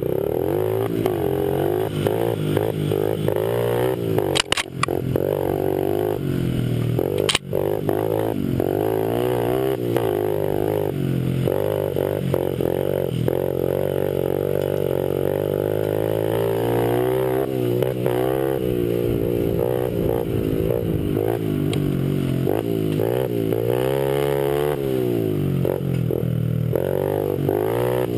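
Honda 50cc pit bike engine running hard, its pitch rising and falling over and over as the throttle is worked and gears change. Two brief knocks come about four and seven seconds in.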